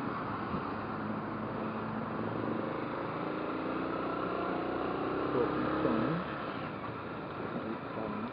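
Motorcycle ride: engine running with road and wind noise, and a clear engine note that fades about six seconds in.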